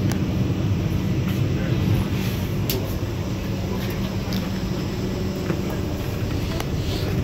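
Steady low rumble of the Vande Bharat Express electric trainset running at speed, heard inside the passenger coach, with a few faint clicks.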